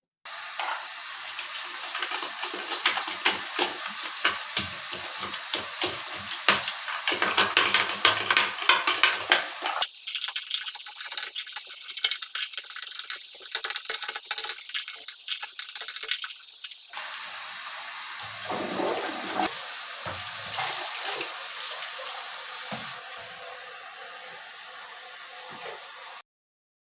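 Water running steadily, with short knocks and clatters of things being handled in the water during the first part and a thinner, hissing stretch in the middle. The sound cuts off suddenly near the end.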